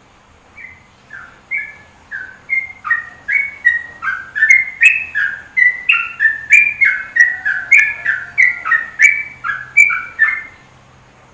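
A songbird singing a long phrase of short, clear whistled notes, many of them slurring downward. The notes start slowly, quicken into a fast, loud run, and stop shortly before the end.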